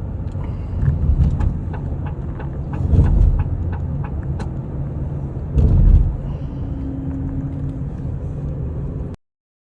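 Motor vehicle running, a steady low rumble of engine and road with scattered light clicks and two louder swells; it cuts off abruptly near the end.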